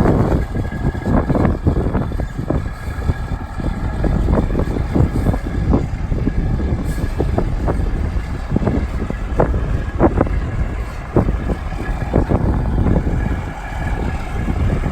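A 1999 International 9100-series semi tractor's diesel engine running steadily, with scattered sharp clicks.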